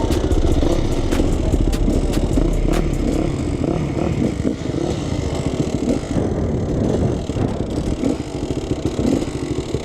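Two-stroke dirt bike engine running and revving up and down while riding over rough ground, with sharp clicks and clatter that are thickest in the first few seconds.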